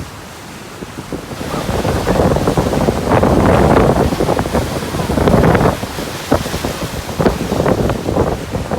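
Storm waves on the Black Sea surging and breaking, with wind buffeting the phone's microphone. Quieter at first, it builds loud about a second and a half in, with many short gusty peaks later on.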